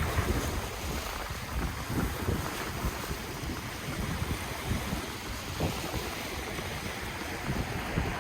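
Ocean waves washing onto the shore in a steady rush, with wind buffeting the microphone in uneven low gusts.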